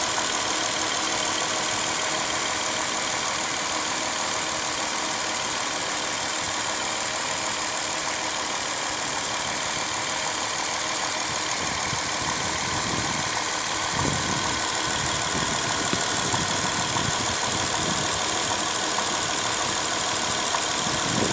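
2005 Dodge Caravan's 3.3-litre V6 engine idling steadily with a knock in the engine. A few deeper, uneven thumps come in during the second half.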